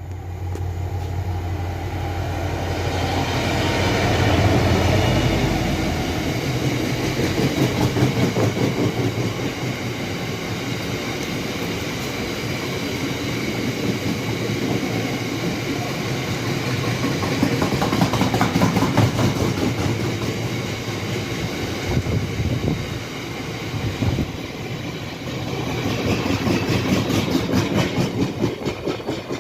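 GBRf Class 66 diesel locomotive passing at the head of a freight train. Its engine hums low for the first few seconds, then a long, steady clickety-clack of wagon wheels over the rail joints follows.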